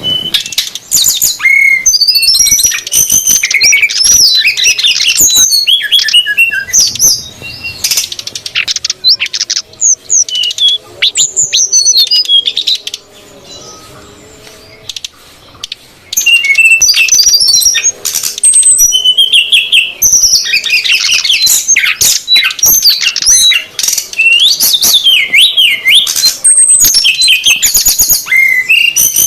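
Bird-lure recording of male and female sridecet birds calling noisily: dense, rapid high chirps and trills. The calls thin out to a quieter stretch about halfway through, then pick up again.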